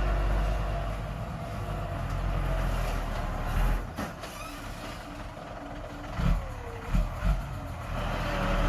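Diesel engine of heavy earthmoving machinery running with a steady low rumble. A few heavy thumps fall about halfway through and again near the end.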